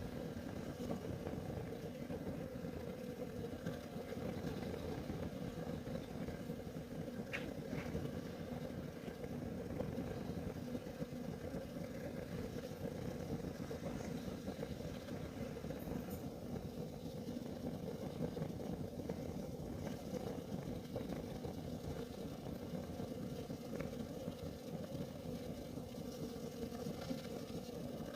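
Kerosene heater burning with a low, steady rumble from the flame, with a couple of faint clicks.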